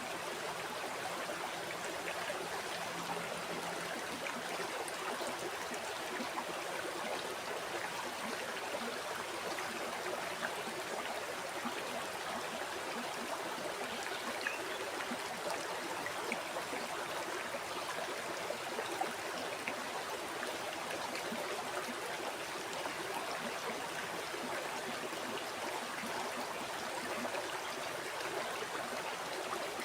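River water flowing over stones: a steady rush with small splashes and gurgles mixed in.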